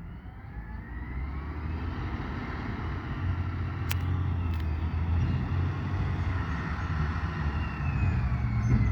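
Garbage truck driving up, its engine growing steadily louder as it approaches, with a faint whine that rises in pitch. A single sharp click sounds about four seconds in.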